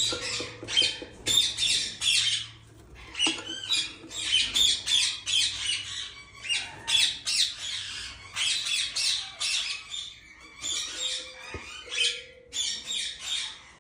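A parrot squawking over and over: harsh, screechy calls in quick runs with short pauses between them.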